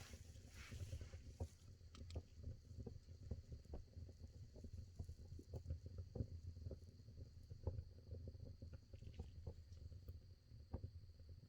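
Firewood burning in a traditional agungi firebox: a low, steady rumble of the fire with many small crackles and pops scattered throughout, and a soft hiss in the first second.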